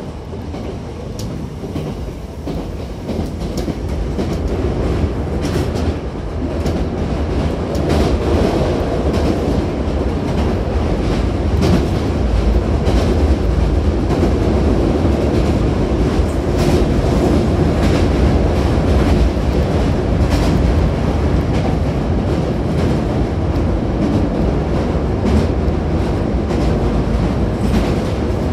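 Hankyu 7000-series commuter train running between stations, heard from inside the car by a closed door. Steady rumble of wheels on rail, with frequent clicks over the rail joints. It grows louder over the first eight seconds or so, then holds steady.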